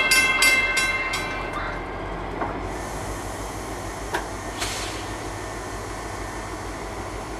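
A train bell rings at about three strokes a second and stops about a second and a half in. It leaves the steady rumble of the slow-moving Aqua Track work train, powered by a GP40FH-2 diesel locomotive, with a few sharp clicks.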